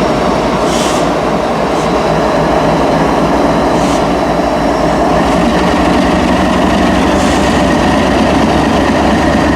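Freight train cars rolling past close by on the rails, a steady loud rumble with a few brief high hisses.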